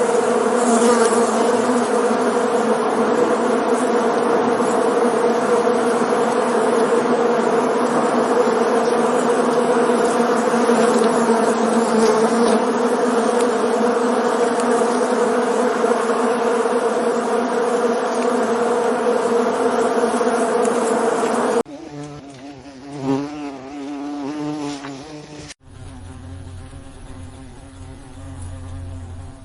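Many bees buzzing together in a loud, dense, steady drone. About three-quarters of the way through it cuts off to a quieter, wavering insect buzz, which gives way a few seconds before the end to another quieter buzz with a lower hum.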